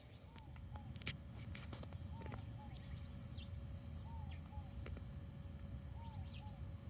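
Hummingbird squeaking in high, scratchy bursts of chatter over the first few seconds. Another bird's soft two-note call repeats about every two seconds throughout.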